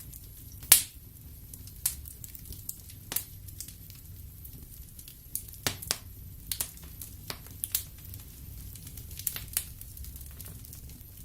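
Wood fire crackling in a fireplace: irregular sharp pops and snaps from the burning logs over a low steady rumble of the flames, with the loudest pop about a second in.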